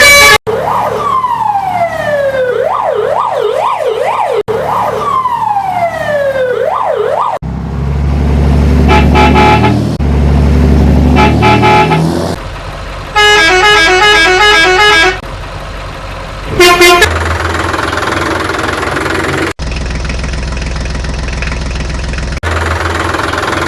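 A run of vehicle sound effects: a siren sweeping down and then warbling up and down, twice, followed by a running engine with horn toots, a quick beeping horn pattern, a short horn blast, and a steady engine rumble.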